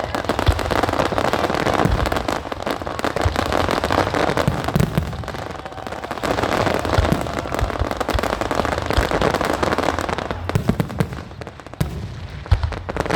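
Aerial fireworks going off in quick succession: dense crackling made of many small pops, with scattered low booms, thinning out briefly about eleven seconds in and then picking up again.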